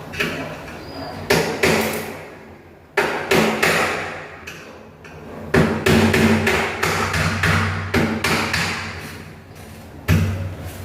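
Repeated sharp knocks and bangs on a sliding window frame during repair, coming in several quick runs.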